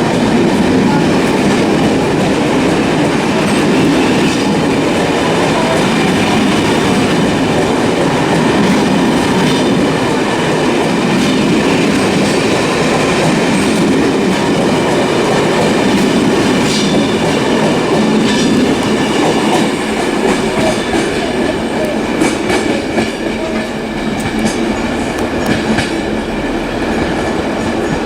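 A train running on the rails, a loud steady running noise; about two-thirds of the way through it eases a little and sharp clicks come through.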